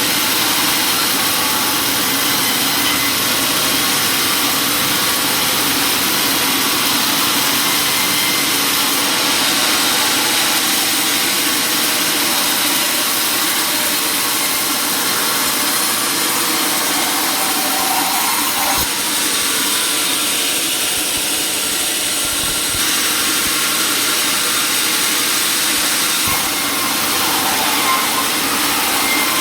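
Sawmill power saw running steadily, with a few brief knocks in the second half.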